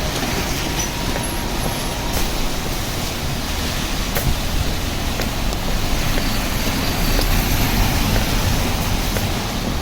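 Steady city street noise of road traffic on wet streets in the rain, with a few faint clicks.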